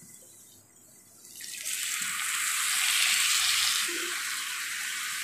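Wet spice paste of blended garlic, ginger and cumin dropped into hot oil with browned onions in a frying pan: a loud sizzle breaks out about a second and a half in and carries on, easing a little towards the end.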